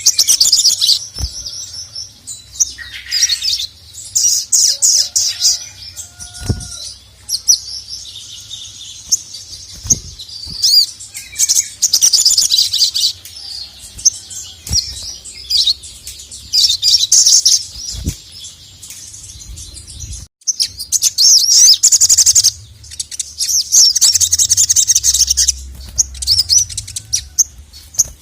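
Sogon (sogok ontong) sunbird singing in rapid, high, trilling chirp phrases of a second or two each, one after another with short gaps. This is the full 'gacor' song used as a master recording to call and provoke males.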